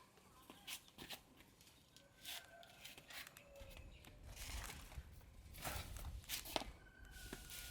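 Scattered light clicks and rustles, like something being handled or walked through, with a low rumble coming in from about three and a half seconds in.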